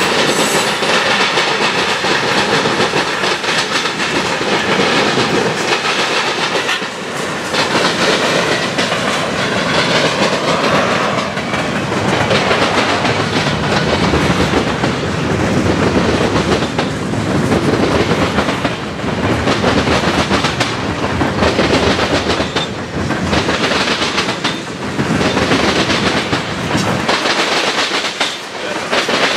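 Freight train cars (covered hoppers and tank cars) rolling past: a loud, steady rumble of steel wheels on rail with a rhythmic clickety-clack as the wheels cross rail joints.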